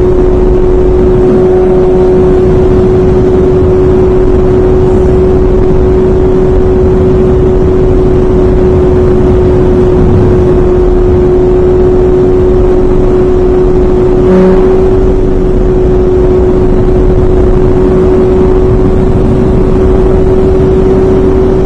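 Honda CBR600 F4i inline-four engine running at steady high revs, holding one pitch while the bike cruises at highway speed, under heavy wind rush on the microphone.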